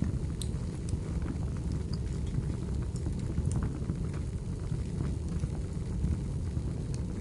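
Wood fire burning in a fireplace: a steady low rush of flames with scattered sharp crackles and pops from the burning logs, several every second.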